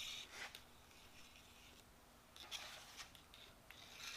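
Near silence with faint rubbing and scraping and a few light clicks, about a second in and again between two and four seconds, typical of hands or a rag working oil over the planer's ground ways.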